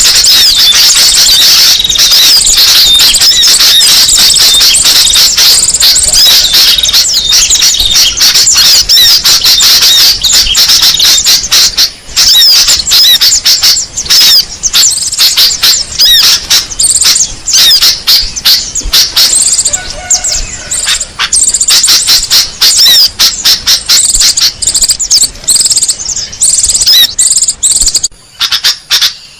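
Loud, dense chorus of small birds' rapid high chirps and squeaky calls, a bird-lure (pikat) recording played to draw in small songbirds. It thins out briefly about twelve seconds in and again near the end.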